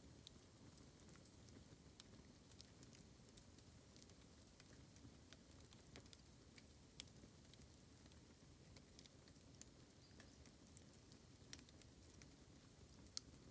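Bamboo burning in an open campfire: faint, irregular crackling with scattered sharp snaps, the sharpest one near the end.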